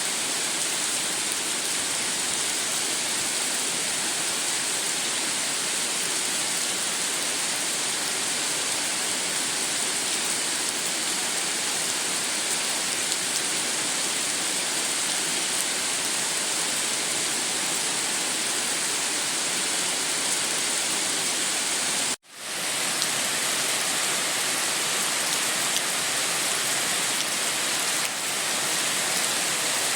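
Steady heavy rain, a dense even hiss. About two-thirds of the way through it cuts out for an instant and comes straight back.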